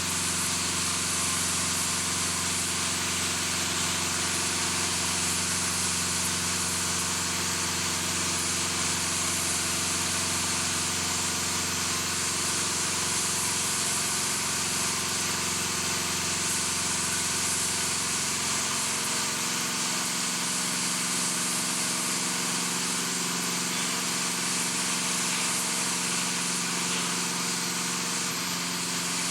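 Steady drone of heavy machinery running: an engine-like hum with several steady tones under a strong hiss. The lowest part of the hum drops away about two-thirds of the way through.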